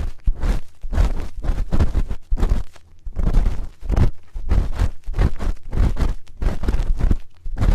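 ASMR spoon ear-cleaning sounds: a spoon scraped and rubbed over a microphone's ear in quick repeated strokes, about two to three a second, each with a heavy low rumble from the close contact.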